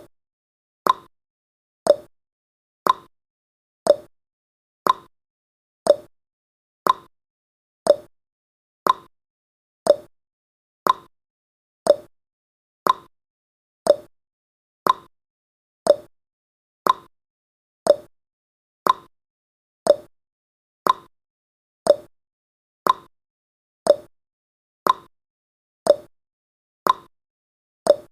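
A countdown timer's ticking sound effect: one short, sharp tick every second, steady and even.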